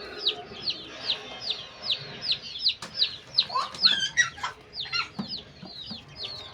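Chicks peeping: a steady run of short, high, falling chirps, about three or four a second, with a few lower calls about halfway through.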